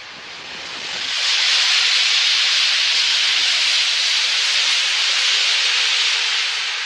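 Passenger train hauled by an electric locomotive rolling past: a loud, steady hiss of wheels on rails that swells over the first second and eases off near the end.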